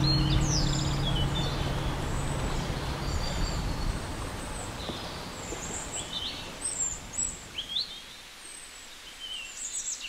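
Birds chirping: short high chirps and quick rising calls scattered throughout, over a steady hiss that fades away. Two low held notes of the background music die out in the first three seconds.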